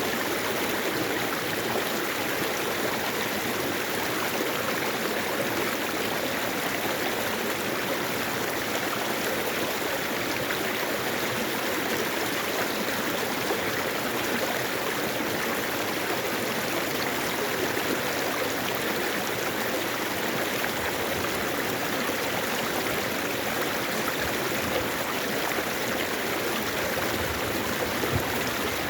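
Mountain stream flowing over rocks: a steady rush of water with babbling and trickling, unbroken throughout.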